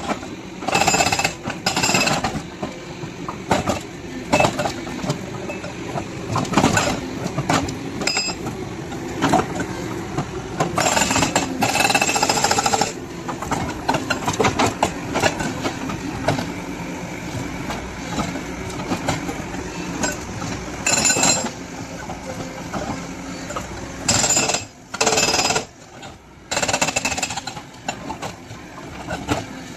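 Excavator-mounted hydraulic breaker hammering in repeated bursts of a second or two, with the machine's engine running steadily between them.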